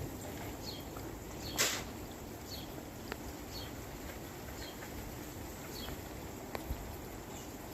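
A bird giving short, high, slightly falling chirps about once a second over faint outdoor ambience. A brief noisy rustle comes about a second and a half in.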